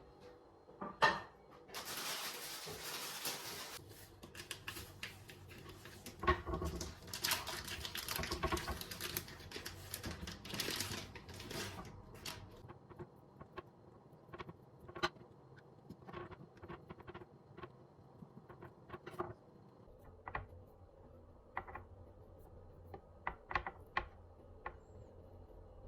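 Kitchen handling sounds during food preparation: two spells of hissing, rustling noise of a few seconds each, then scattered light clicks and taps.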